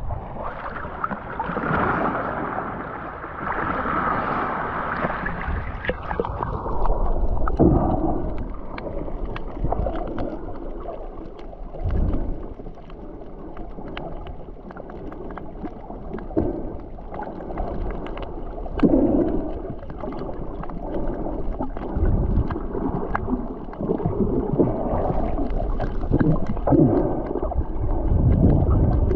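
Water sloshing and gurgling around a boat, with wind buffeting the microphone in uneven gusts; a steadier rushing hiss in the first few seconds.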